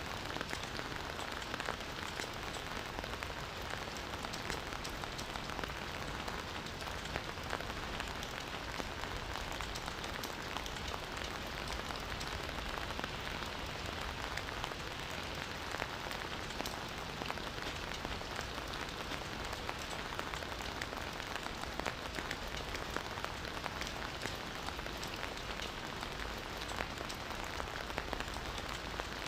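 Steady rain falling: an even hiss with many small drop hits scattered throughout, unchanging in level.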